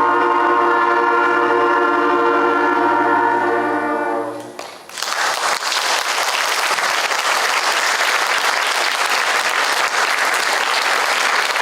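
School concert band holding a final sustained chord, cut off about four and a half seconds in. Audience applause follows at once and continues.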